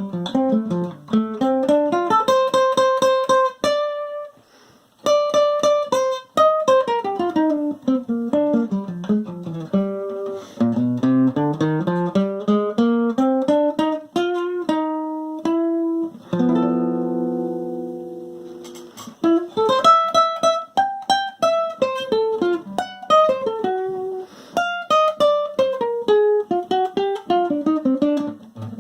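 Acoustic guitar played solo with no singing: fast runs of picked single notes rising and falling in pitch. There is a brief pause about four seconds in, and a chord is left ringing for a couple of seconds around the middle.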